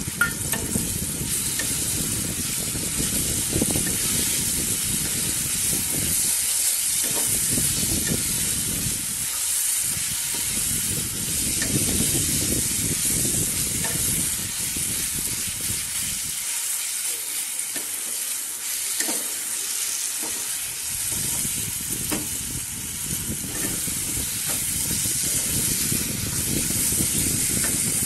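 A thick ground nut-and-spice paste sizzling in a non-stick frying pan while a wooden spatula stirs and scrapes it. The sizzle stays steady, and the stirring strokes come and go, stopping for a few seconds past the middle.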